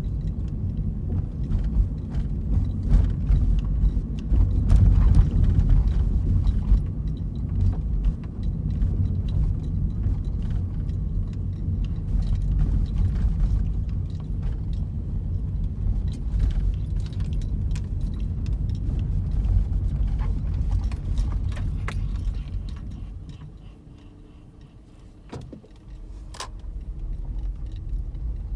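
Steady low road rumble inside a 2004 Toyota Prius while driving. About three-quarters through, the rumble fades as the car brakes and slows; a faint steady hum and two sharp clicks follow, where the owner hears an unexplained noise when the brake is pressed.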